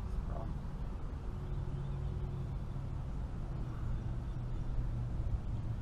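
Steady low drone of a boat engine running, with a low rumble underneath.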